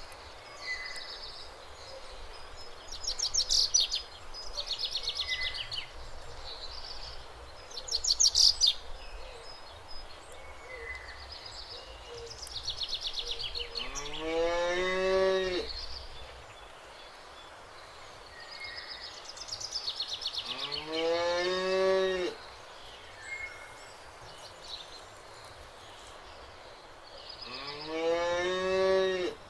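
Cattle mooing three times in the second half, each a long low call that rises in pitch and then holds for about two seconds. Small birds chirp and trill in quick high-pitched runs throughout, loudest in the first ten seconds.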